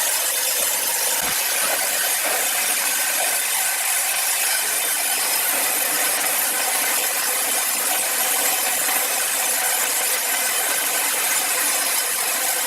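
Power saw cutting steadily through a large log: an unbroken, high-pitched hiss of blade in wood.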